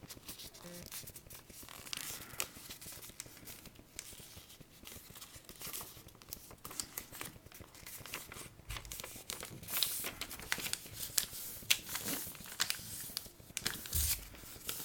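A sheet of paper being folded in half and creased, with rustling and crinkling and short sharp crackles as the fold is pressed down, busier in the second half.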